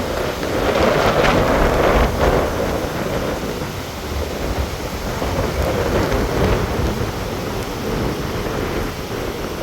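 Gusting hurricane wind buffeting the microphone over the wash of waves in Tampa Bay, a rushing noise that swells loudest about a second or two in, then eases and surges again.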